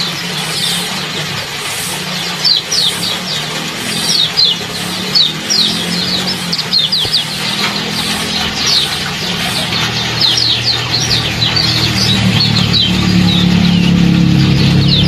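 Small songbirds chirping in quick, sharp 'ciak ciak' notes, many short downward-sliding calls in a row. Underneath runs a steady low hum that grows louder over the last few seconds.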